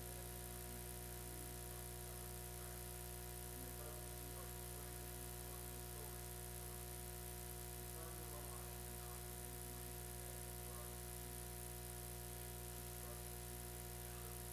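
Steady electrical hum and hiss with faint, indistinct music underneath.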